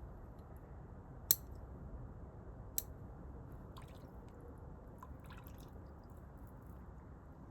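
Scissors snipping a seedling's roots during root pruning: two sharp snips about a second and a half apart, then faint crackling of roots and soil being handled.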